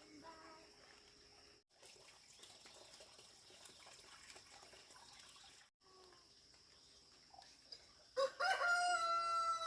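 A rooster crows once near the end: a loud call that rises and then holds one long steady note. A short, faint bird call sounds at the very start.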